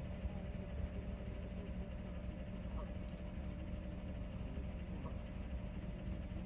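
Engine idling steadily, a low rumble with a constant hum.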